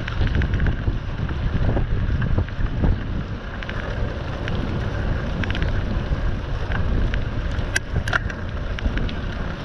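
Wind buffeting the microphone, a steady low rumble with scattered light clicks and rattles.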